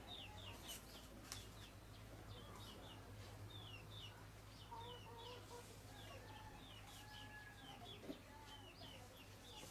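Faint bird calls: many short high chirps repeating throughout, with a few longer, lower calls from about five seconds in, over a low steady hum.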